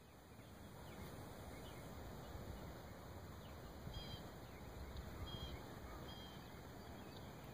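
Faint outdoor ambience, a steady low rumbling hiss, with a few short, high bird chirps about four to six seconds in.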